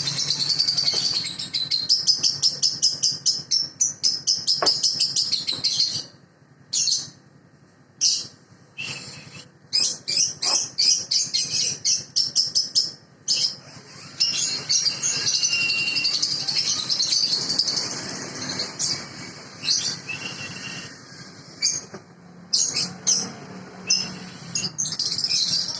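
Baby lovebirds calling with rapid, high-pitched chirps: a dense run of chirping for about the first six seconds, then shorter runs broken by brief pauses.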